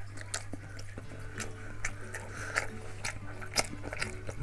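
A person chewing momo dumplings in sauce, with mouth clicks and smacks coming irregularly, several a second.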